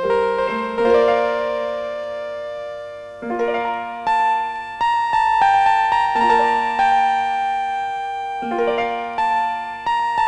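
Film score music: a keyboard melody of struck notes that ring and fade, pausing briefly about a quarter of the way in before the notes resume.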